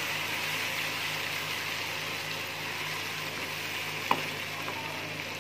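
Masala of onion, tomato and green chillies sizzling steadily in hot oil in a pan as a spatula stirs it, with one light tap about four seconds in.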